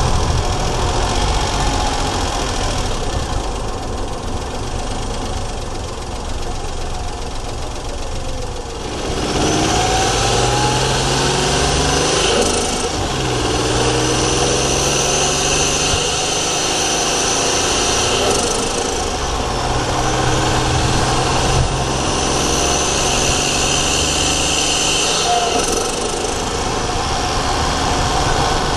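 Daihatsu Charade GTti's three-cylinder turbo engine heard from inside the engine bay. It runs steadily at light load, then about nine seconds in pulls hard with its pitch climbing, drops sharply at two gear changes and climbs again, with a high turbo whistle over the engine.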